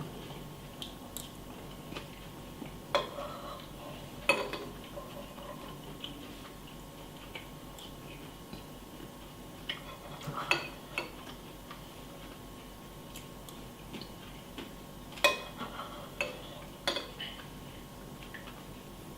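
Spoon clinking against a cereal bowl a handful of times, scattered and irregular, with the sharpest clinks about four seconds in and again around fifteen seconds.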